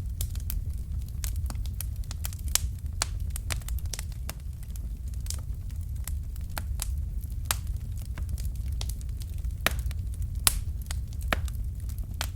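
Fireplace fire crackling: irregular sharp pops, a few of them louder, over a steady low rumble of the flames.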